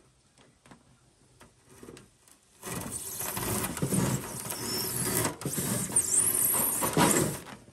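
Rigid foam insulation board being cut and scraped, a loud rasping sound with brief high squeaks, starting about three seconds in and stopping shortly before the end.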